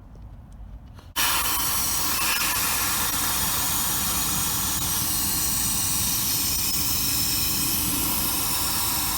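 A pressurised jet from the car air-conditioning evaporator cleaning equipment starts suddenly about a second in and keeps up a loud, steady hiss.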